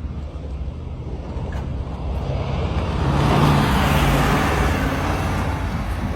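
A road vehicle passing by: engine hum and tyre noise build to a peak about halfway through, then fade, over a steady low rumble of wind on the microphone.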